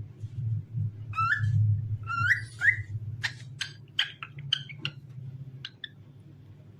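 Cockatiel whistling: a few upward-swooping whistles in the first three seconds, then a quick run of short chirpy notes that trails off about six seconds in. A steady low hum runs underneath.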